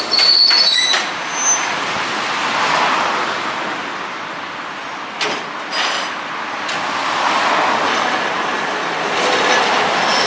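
Manyo Line streetcar running on its rails: a steady rolling rumble, with a high wheel squeal in the first second and two sharp clacks about five seconds in.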